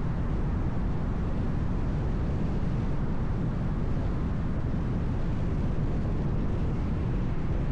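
Steady low rumble of a car being driven: road and engine noise, even and unchanging.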